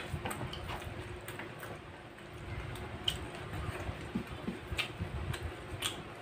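People chewing and smacking their lips while eating by hand, heard as a scatter of short wet clicks and smacks over a faint steady hum.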